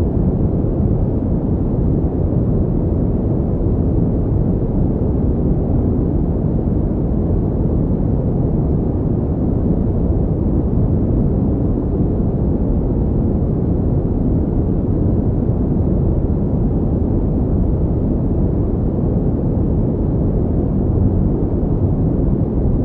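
Steady pink noise: a continuous, even rushing sound with its weight in the low end, unchanging.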